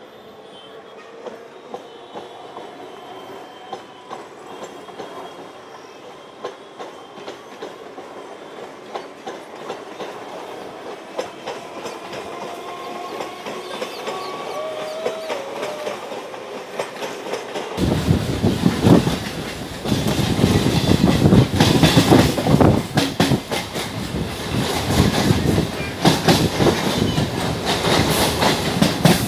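Suburban electric train running between stations, with a faint motor whine rising in pitch as it gathers speed and light wheel clicks over the rail joints. About two-thirds of the way in, it abruptly turns much louder with dense wheel clatter.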